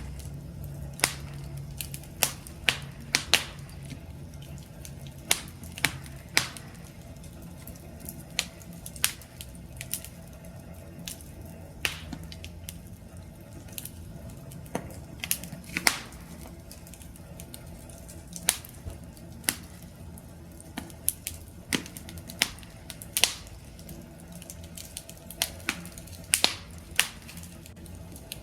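Campfire crackling: irregular sharp pops and snaps of burning wood, about one or two a second, over a low steady rumble of the flames.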